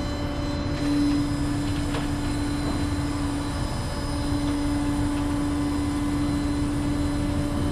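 Rollback tow truck's hydraulic bed being lowered: a steady hydraulic whine over the running truck engine, breaking off briefly about three and a half seconds in before resuming.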